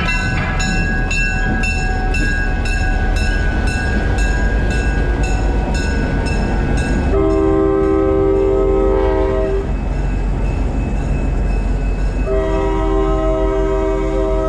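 A locomotive sounds long warning blasts on a chord: one about seven seconds in lasting a couple of seconds, and another starting near the end. Before the first blast a bell rings rapidly and steadily, about three strokes a second, over the running noise of the train.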